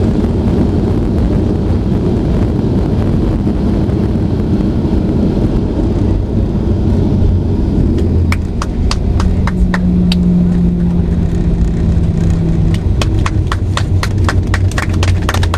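Cabin noise of a Boeing 737-800 rolling on the ground after landing: a steady low rumble. About halfway through, a run of sharp clicks and knocks begins and grows quicker toward the end, with a brief steady hum in the middle.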